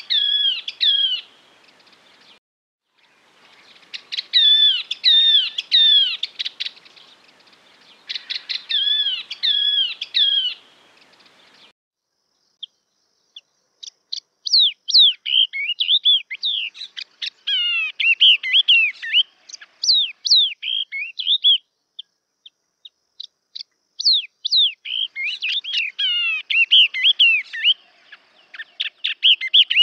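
Yellow-eyed babbler song: phrases of quick, clear whistled notes, each sliding downward, repeated every few seconds. About halfway through, the faint background hiss drops out and the phrases become longer and denser.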